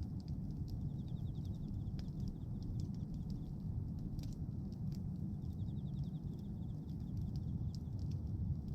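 Bonfire of pruned tree branches burning: scattered crackles and pops over a steady low rush.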